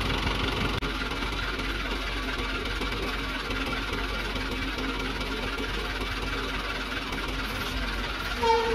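Hino Dutro 130 HD dump truck's diesel engine running steadily, with a brief higher-pitched tone near the end.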